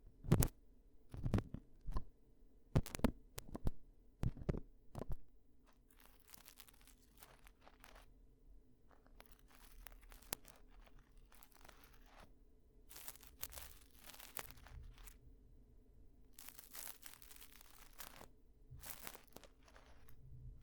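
Close-miked ear-cleaning ASMR sounds: a quick run of sharp taps and clicks over the first five seconds, then soft scratching and rubbing in short bursts, each about a second long.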